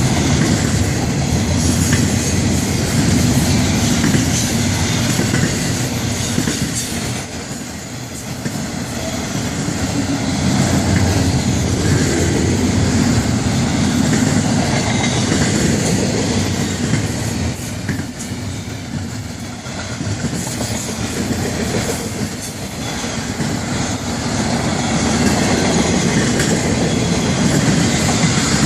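Florida East Coast Railway freight train's cars rolling past: a steady rumble and clatter of steel wheels on the rails. The sound dips briefly twice, about a third and about two-thirds of the way in.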